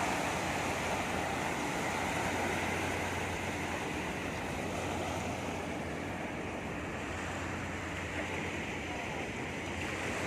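Sea surf washing onto the shore, a steady rush of wave noise.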